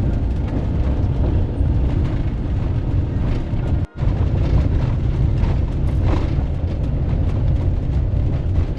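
Steady heavy low rumble of a vehicle driving along a forest road, broken by a short gap about four seconds in.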